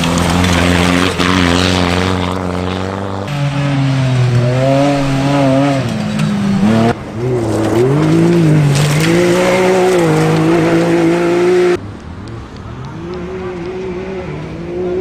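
Off-road rally vehicle engines running hard, their pitch rising and falling as they rev. The sound comes from several short shots cut together, changing abruptly about three, seven and twelve seconds in.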